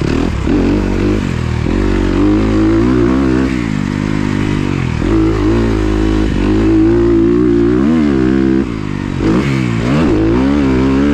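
Kawasaki KX250F four-stroke single-cylinder motocross engine being ridden hard, its pitch repeatedly rising under throttle and falling as it shifts or backs off. It briefly drops off about eight and a half seconds in, then picks up again.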